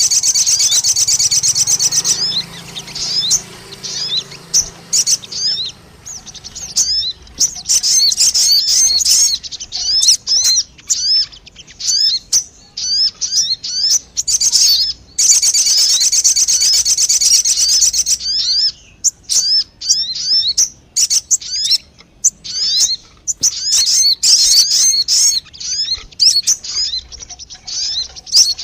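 Lure-call recording of the bird known in Indonesia as 'sogon': high-pitched chirping. There are dense, fast, rattling trills about two seconds long at the start and again around the middle, and many short rising chirps in between.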